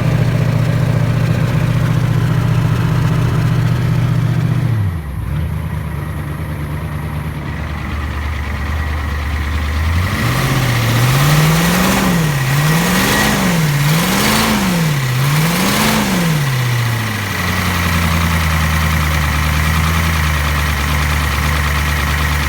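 1993 Ford F-350's 7.3 IDI V8 diesel running, its top end freshly rebuilt after years of sitting. It runs at a fast idle, drops to a lower idle about five seconds in, then is revved up and down four times in quick succession before settling back to a steady idle.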